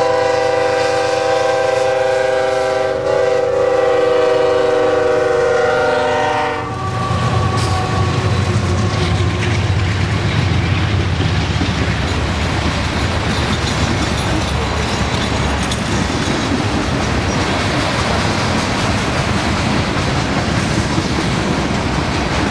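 A freight locomotive's air horn sounding a chord, blown as one long blast and then another after a short break about three seconds in, cutting off a little before seven seconds. The train then rolls past with a steady low rumble and the clatter of wheels on the rails.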